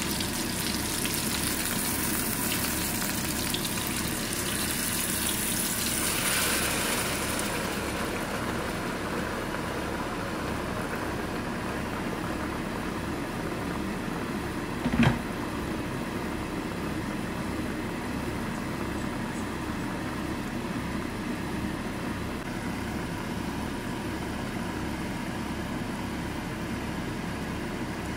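Tofu cubes sizzling in hot oil in a non-stick wok, with a louder hiss about six seconds in as liquid hits the pan; after that the sizzle gives way to a quieter, duller simmer. A single sharp knock, the loudest sound, comes about halfway through.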